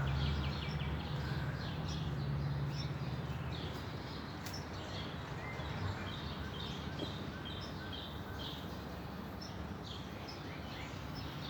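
Small birds chirping over and over in short, high notes. A low, steady hum fades out after the first few seconds.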